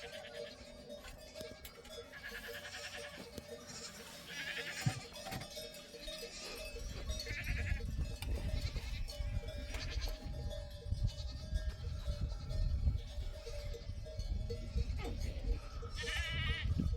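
Goats and sheep bleating in short wavering calls, four or so, over background music. A low rumble sets in about seven seconds in.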